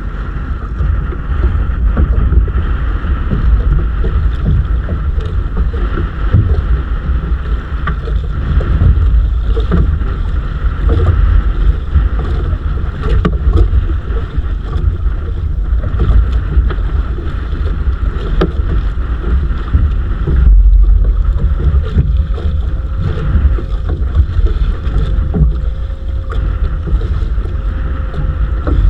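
Wind buffeting the microphone on a small fishing boat at sea, with many short knocks and clatter throughout.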